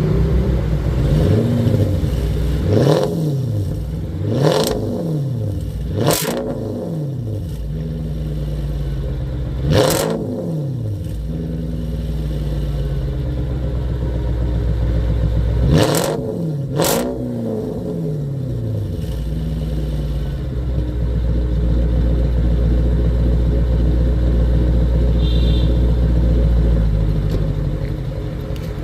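Straight-piped Mercedes M273 V8 running and being revved in about six quick blips, each rising and falling in pitch, between stretches of steady running. Near the end it holds a steadier, slightly louder note for several seconds.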